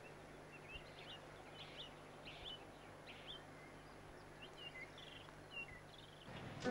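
Faint birdsong: scattered short chirps and twitters from small birds, with a low steady hum underneath that stops near the end.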